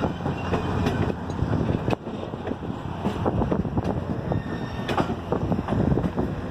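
Railroad cars of a passing train rolling by close at hand: a steady rumble with irregular clicks and knocks from the wheels on the rails.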